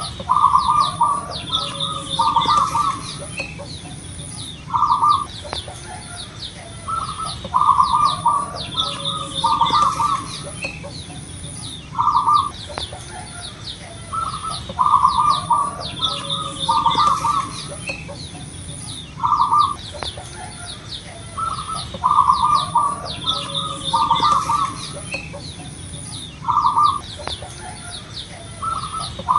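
Zebra dove (perkutut) cooing its short, rolling song phrases, one every one to three seconds, in a sequence that recurs about every seven seconds. Fainter rapid high chirps and a steady high insect-like buzz run underneath.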